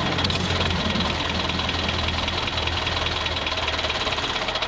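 Tractor engine sound running steadily with a fast, even chugging.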